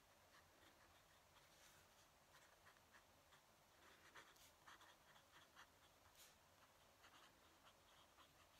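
Fountain pen nib scratching faintly across paper in short, irregular strokes.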